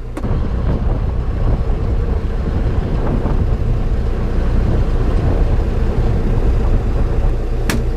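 Tractor engine running with the PTO driving a John Deere 469 MegaWide round baler, the baler's belts and rollers turning; a steady mechanical din that steps up in level just after the start. A sharp click right at the start and another near the end.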